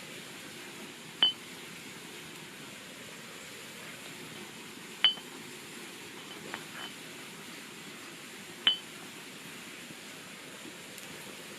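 Three sharp clinks, each with a brief high ring, a few seconds apart, over a steady hiss: light metal or glass objects knocking together.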